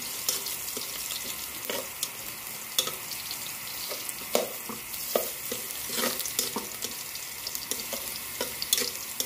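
Ginger and garlic sizzling in oil in a metal pot, with a spatula scraping and knocking against the pot at irregular moments as they are stirred.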